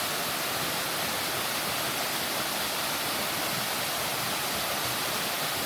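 Spring-fed waterfall, water pouring off a cliff with a steady, even rush.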